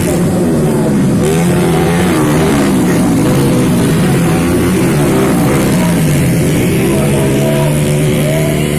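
Several vehicle engines running and revving at once, their pitches rising and falling over one another.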